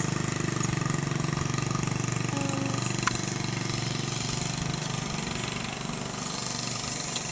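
A child's small motorcycle engine running steadily with a fast, even pulse, easing off slightly in the last couple of seconds.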